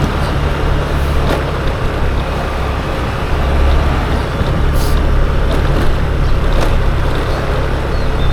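Steady riding noise from a moving motor scooter: a continuous low rumble of wind buffeting the microphone, mixed with engine and road noise.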